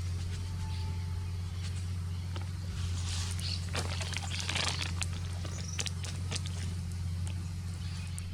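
Wood campfire crackling with scattered sharp pops over a steady low rumble, and a brief hissing rush in the middle.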